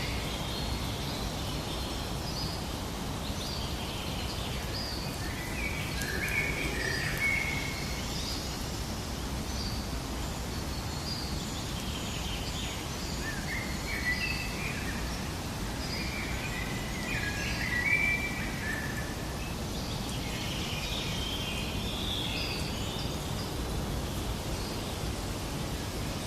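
Wild birds chirping and singing in short bursts of phrases that come and go every few seconds, over a steady background hiss of outdoor ambience.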